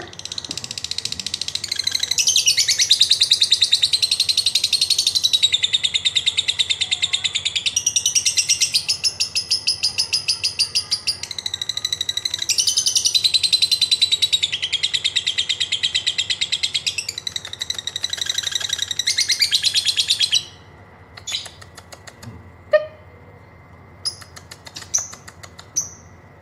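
Lovebird singing a long, rapid, high-pitched chattering trill, the 'ngekek', for about twenty seconds, then breaking off into a few scattered short chirps.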